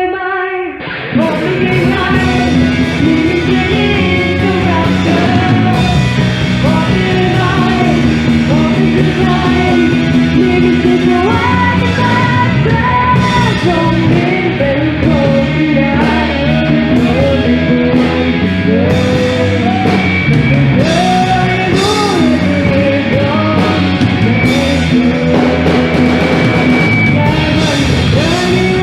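A rock band playing a song with a lead singer; the full band comes in loudly about a second in.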